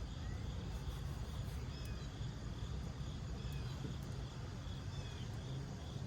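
Steady low background rumble with a few faint, short bird chirps scattered through it.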